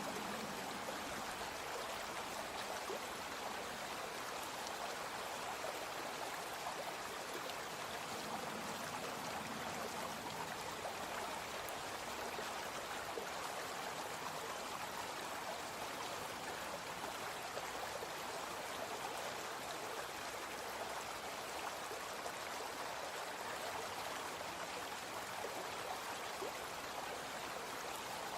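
Small brook flowing steadily, an even, unbroken rush of running water.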